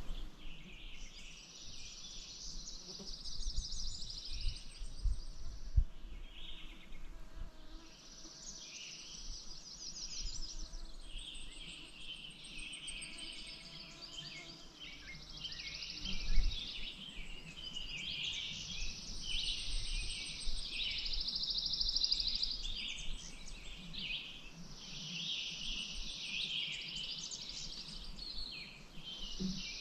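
Outdoor birdsong: a high, buzzy trill lasting two to three seconds repeats every few seconds over scattered chirps from other birds. There are a few brief low thumps, the strongest about six and sixteen seconds in.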